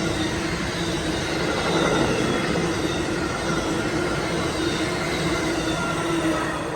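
Amtrak Northeast Regional passenger train passing at speed: the cars roll by with a steady rumble and rail noise, with a faint steady squeal from the wheels. It begins to fade right at the end.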